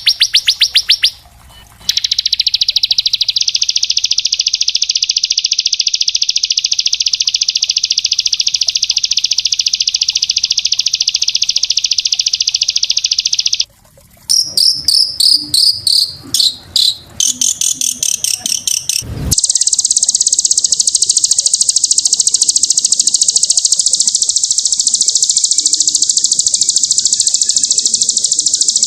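Small songbirds singing long, very fast, tightly packed trills. A sustained trill runs for about twelve seconds, breaks into short choppy chirping phrases, and after a sharp click gives way to another long, higher-pitched trill.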